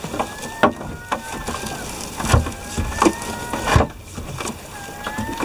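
Irregular wooden-sounding knocks and thumps, about six in all, with short thin squeaks sliding slightly in pitch, as anchor line is hauled aboard by hand over the stern of a small boat.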